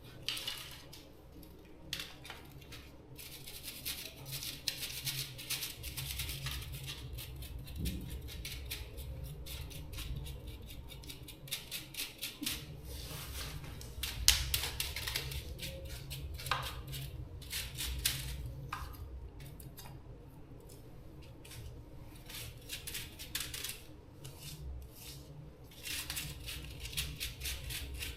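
Small tools and hard parts being handled in repair work: irregular clicks, taps and short scrapes, with a low hum from about six seconds in.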